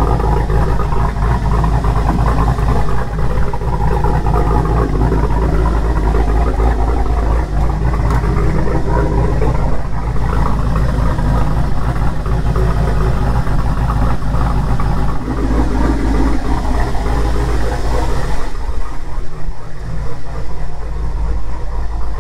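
LS V8 engine swapped into a Nissan 300ZX idling steadily through its exhaust, just started for the first time in months. It runs a little rich on larger injectors with the tune not yet dialed in. Its low rumble thins out about eighteen seconds in.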